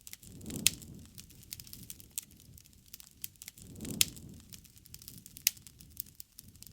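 Bonfire crackling with irregular sharp pops and snaps, and a low rush of flame that swells twice, about half a second in and again about four seconds in, each time with a loud pop.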